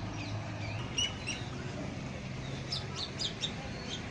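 Birds chirping in short high notes, with a quick cluster of calls about three seconds in, over a low steady hum.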